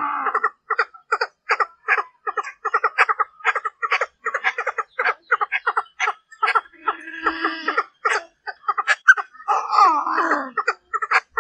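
Female Chinese francolin (đa đa hen) calling: a rapid run of short clucking notes, broken by a longer chattering phrase about two-thirds through and another near the end. It is the hen's call used as a decoy to draw and provoke the male.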